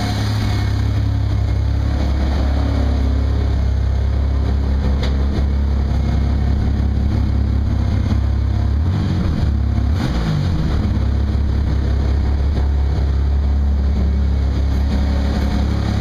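A 1992 Chevy Camaro's 3.1-litre V6 idling steadily after a hard cold start, its pitch wavering briefly about nine to ten seconds in.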